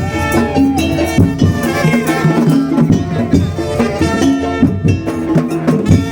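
Madurese daul ensemble playing a loud, fast rhythmic tune: a steady pattern of drums and small percussion under a pitched melody line.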